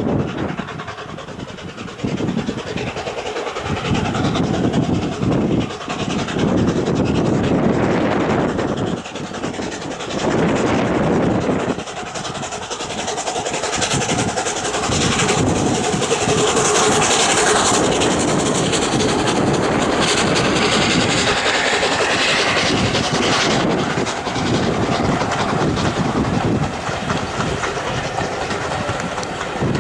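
A steam-hauled train passing close by: the locomotive's exhaust and hiss, and the wheels of the coaches clattering over the rail joints. It is loudest a little past the middle.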